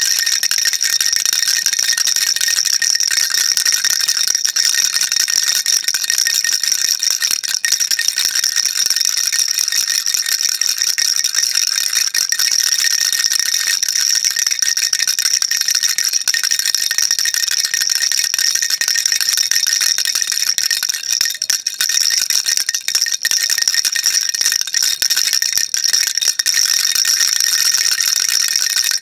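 A baby rattle shaken without pause: a steady, dense, high-pitched rattling.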